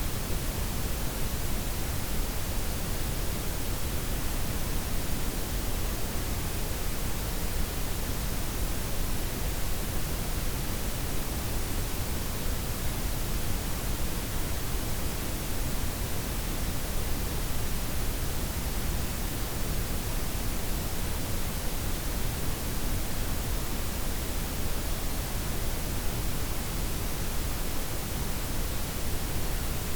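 Steady layered noise blend for sleep: white noise with pink and brown noise mixed in, an even unbroken hiss with a strong low rumble beneath, its highs softened. No change in level or texture.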